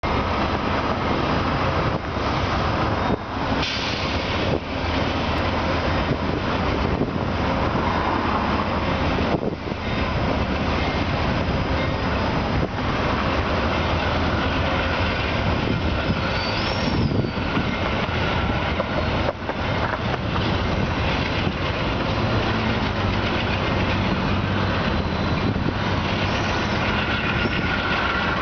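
A passenger train pulling out: the locomotive's engine is running and the cars roll along the rails in a continuous rumble. There is a brief high squeal about two-thirds of the way through.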